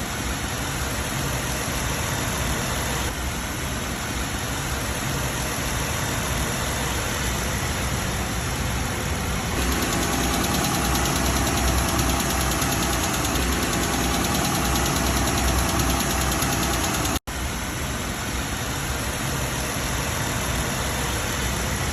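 Chrysler 3.6-litre Pentastar V6 running with its worn rocker arm replaced, without the ticking of rocker arm failure. It runs louder and higher for several seconds from about halfway, and there is a brief break shortly after.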